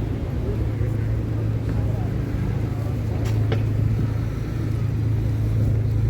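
City street ambience: a steady low traffic rumble mixed with wind buffeting the microphone, with two brief clicks a little after three seconds in.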